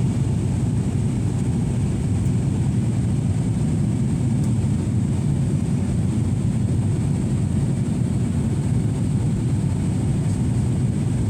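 Airliner cabin noise in flight: a steady, even low rumble of engines and airflow heard from inside the passenger cabin.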